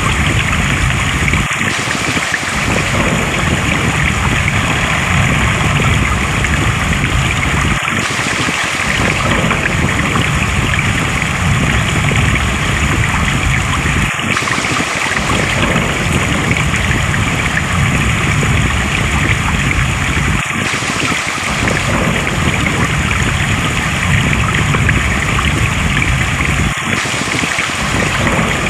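Steady rushing of flowing stream water. The deep rumble under it drops away briefly about every six seconds, in a regular repeat.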